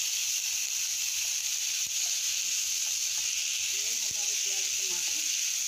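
Onions and tomatoes sizzling steadily in hot oil in a wok, stirred with a spatula, with a couple of light taps against the pan.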